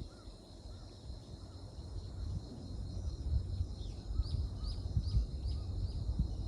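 Outdoor dawn ambience: a steady high insect trill over a low uneven rumble. In the second half a bird gives a quick series of about five short falling chirps.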